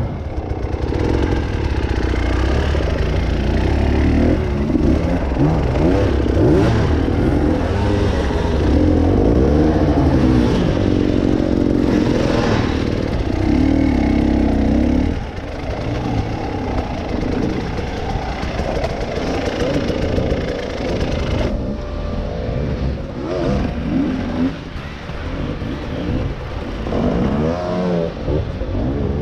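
Off-road vehicle engine running and revving up and down under load, loudest for about the first fifteen seconds, then easing off a little.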